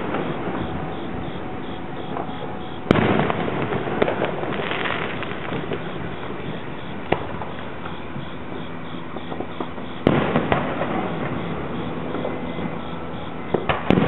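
Aerial firework shells bursting. There are sharp bangs about three seconds in, around ten seconds and near the end, a smaller crack in between, and continuous crackle and rumble from the display throughout.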